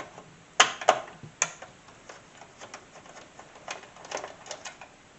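Sharp plastic and metal clicks and knocks from parts being handled inside a desktop PC case: three loud ones about half a second to a second and a half in, then lighter, irregular clicks.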